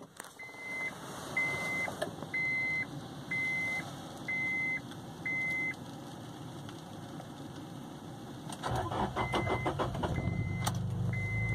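A car's warning chime beeps about once a second. Near the end, the Acura Integra's starter cranks briefly and the engine catches, then runs steadily with the chime beeping again. It is a hot start on an engine that has been refusing to start at normal running temperature.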